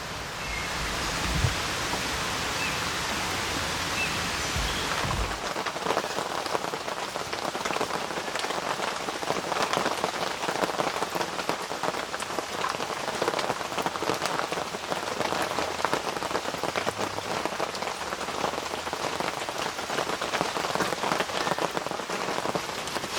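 Rain falling, with a dense patter of drops on surfaces. For the first five seconds or so there is a steady rushing with a few low bumps, and then the close patter sets in.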